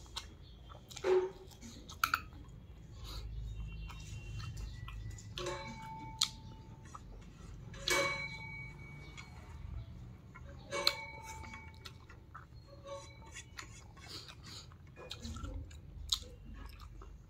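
Eating by hand: chewing and lip-smacking on mouthfuls of rice and dried fish, with fingers scraping food together on a plate. A few sharp clicks come through, some with a short ring.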